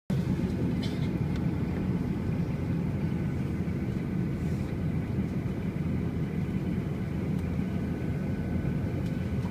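Steady low engine rumble with a faint, even whine above it.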